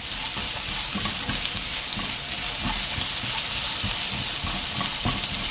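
Sliced onion and garlic sizzling in hot oil over high heat in a nonstick wok, a steady hiss, with soft knocks of a silicone spatula stirring them now and then.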